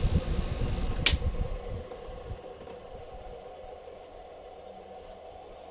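Window air conditioner running, then shut off with a sharp click about a second in; the fan and compressor wind down over the next second, leaving only a faint steady sound of refrigerant flowing as the pressures equalize.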